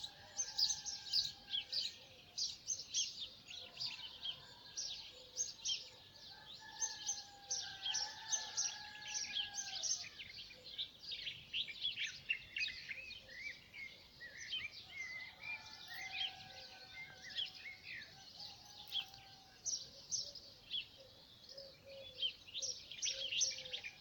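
Dawn chorus of many small birds chirping in quick, overlapping calls, with a few longer whistled notes from another bird now and then.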